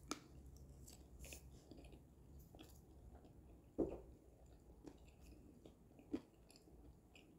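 Faint chewing of a forkful of fries topped with fried chicken, with a few soft crunches; the clearest comes nearly four seconds in and another a little after six seconds.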